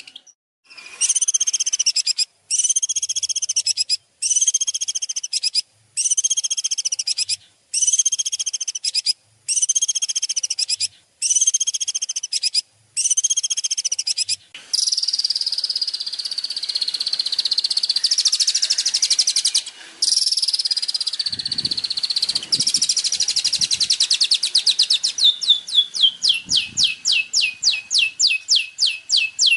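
Recorded songbird song of the kind used to train a caged bird: a trilled, arching phrase repeated about nine times, each lasting roughly a second and a half with short pauses between. It then runs into an unbroken high trill and ends in a fast series of evenly repeated notes.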